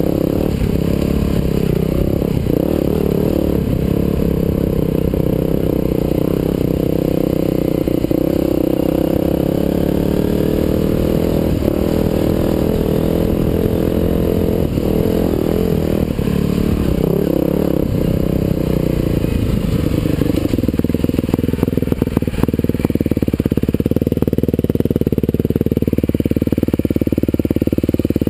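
Husqvarna TE511's single-cylinder four-stroke engine running under a rider, revving up and down with the throttle. It settles into a steadier run near the end.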